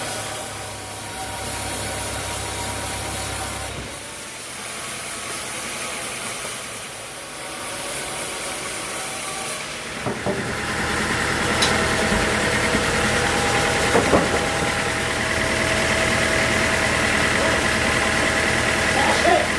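Sawmill machinery running with a steady engine-like hum. About ten seconds in it grows louder and a steady high whine joins it, with a few short knocks.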